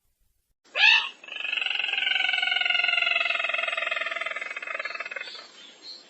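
Recorded lure call of the sintar merah bird: a short loud rising note, then a long rapid trill about five seconds long that falls slightly in pitch and fades out.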